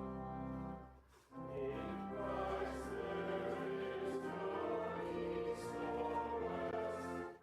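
A sustained instrumental chord ends about a second in, and after a short break voices sing a hymn with instrumental accompaniment.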